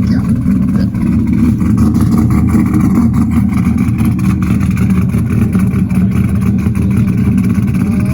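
A vehicle's engine running loudly and steadily, with a deep exhaust note and no big revs.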